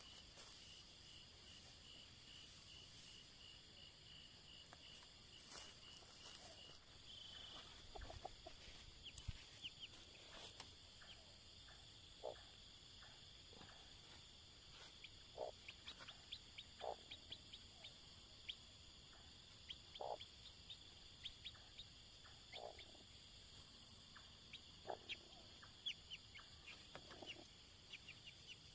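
Faint, steady high chirring of insects, with a run of even pulsing chirps for the first several seconds. Short low animal calls break in every second or two.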